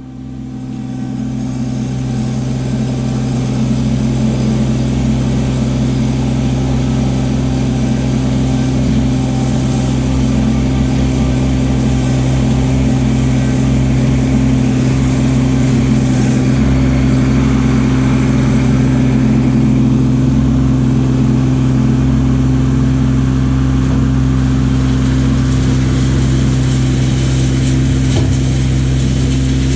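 Kubota LX2610 compact tractor's three-cylinder diesel engine running steadily at travel speed, growing louder over the first few seconds and then holding an even drone.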